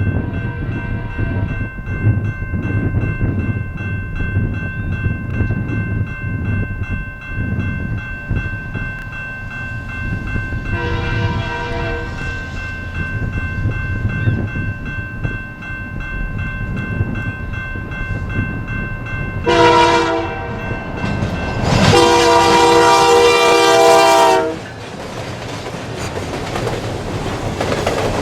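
Diesel freight locomotive sounding its multi-tone horn over the steady rumble and clatter of the train: a shorter blast about halfway through, another short blast later, then a loud long blast near the end.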